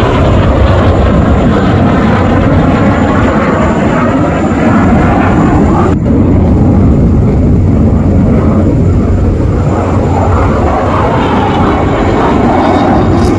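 Fighter jet engine roar during an air-show display pass, changing in pitch as the jet goes by. The sound breaks off abruptly about six seconds in and the roar resumes.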